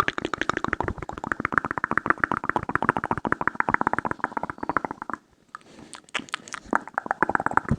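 Close-miked wet ASMR mouth sounds: a fast run of clicks and smacks, well over ten a second, for about five seconds, then a short pause and slower, scattered clicks near the end.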